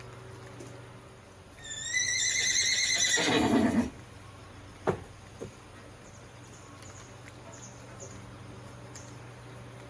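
A horse neighs once, about two seconds in: a high, wavering whinny of about two seconds that drops into a low rumble at the end. About a second later comes a sharp knock, then a fainter one.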